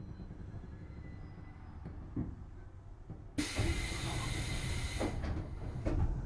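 Tobu 6050 series train standing with a low steady rumble, then a sudden loud hiss of released compressed air about three and a half seconds in that lasts over a second and fades, followed by a couple of sharp clicks near the end.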